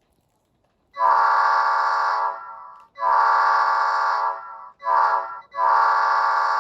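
Recorded F40PH locomotive air horn played by an ESU LokSound 5 sound decoder, sounding the grade-crossing pattern: two long blasts, a short one, then a long one. Each blast is a chord of several steady tones.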